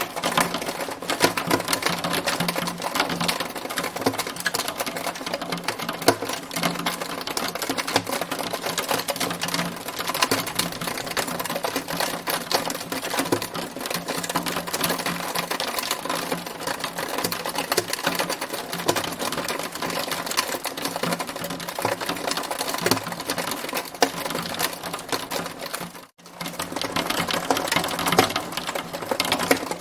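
Hailstones striking hard surfaces in a dense, continuous clatter of rapid clicks and taps, briefly cutting out near the end.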